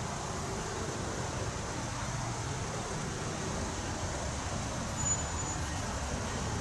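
Low, steady rumble of an approaching Amtrak passenger train led by an ACS-64 electric locomotive.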